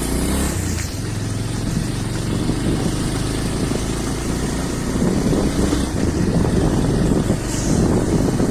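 Motorcycle engine running at low speed as it is ridden over a rough off-road dirt track, with a rumbling, uneven noise that grows in the second half.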